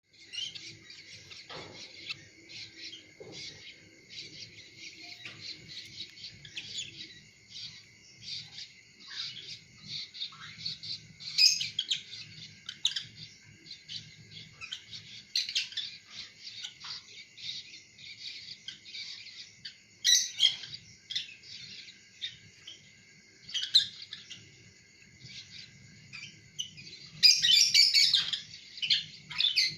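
Lutino lovebirds chirping and chattering in a continuous stream of quick, high-pitched calls, with louder flurries now and then, the biggest near the end.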